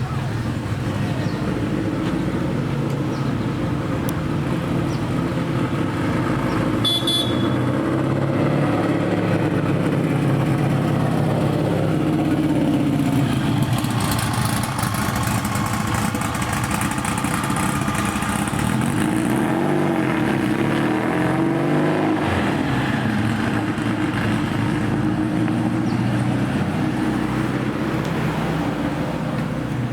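A car engine running close by and driving slowly past. Its note rises and falls a few times. About seven seconds in there is a brief high-pitched tone.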